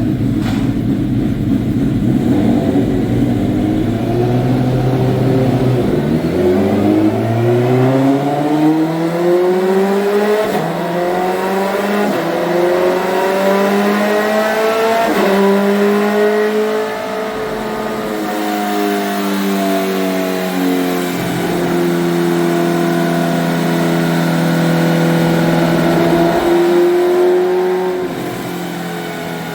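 Twin Suzuki Hayabusa inline-four engines in a mini truck making a pull on a chassis dyno. A steady low rumble gives way about six seconds in to a climbing engine note that dips briefly at each upshift. The note holds high for a while, then drops near the end.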